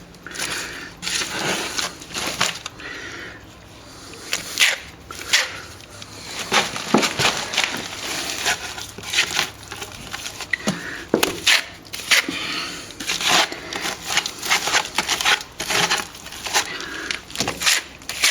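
Irregular scraping and scratching strokes of a plasterer's hand tool working plaster on a cracked wall, some short and sharp, some drawn out.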